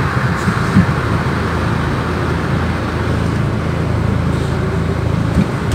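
Diesel truck engine idling steadily, heard from inside the cab while the truck stands still, with a light knock about a second in and another near the end.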